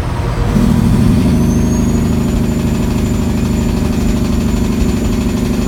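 Caterpillar C15 diesel in a heavily loaded Kenworth W900L, pulling hard under load from about half a second in, with the single turbo's whistle climbing in pitch over the next second or so and then holding steady and high as it spools up to boost.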